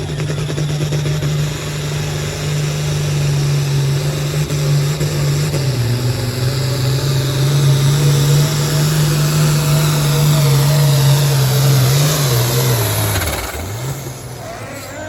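Modified farm pulling tractor's engine held at full throttle under heavy load as it drags the pulling sled, a steady high note with slight dips. About thirteen seconds in the engine note drops away as the pull ends, with a falling whine trailing off.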